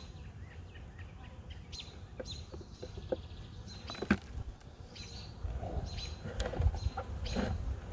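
Birds chirping in the background, with a single sharp knock about four seconds in and low rustling handling noise in the second half.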